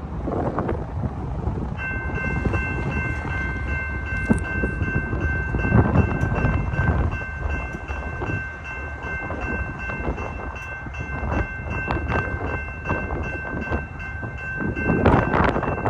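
Grade-crossing warning bell starting to ring about two seconds in and ringing steadily on, over strong wind buffeting the microphone and the low rumble of an approaching freight train.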